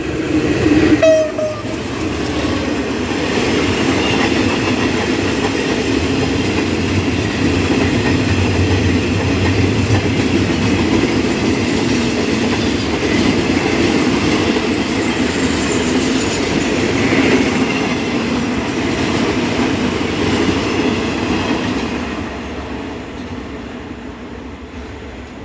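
Freight train of oil tank wagons rolling past, a steady rumble and clatter of wheels on rail joints that fades away near the end. A short horn note sounds about a second in.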